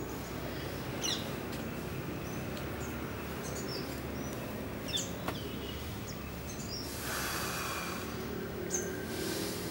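Small birds chirping in short, sharp high calls every few seconds over a steady low background rumble. A brief rustling hiss comes about seven seconds in and again near the end.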